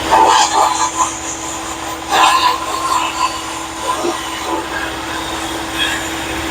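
Glass-bead media blasting: spells of hissing compressed air and bead grit against a steel floorboard, the loudest at the start and about two seconds in. A vacuum drones steadily underneath.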